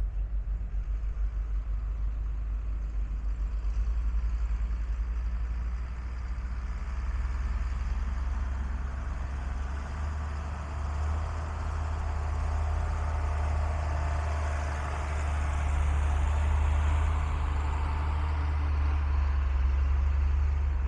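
A 1992 Ford L8000 truck's engine running with a steady low drone. It grows somewhat louder and fuller after about ten seconds.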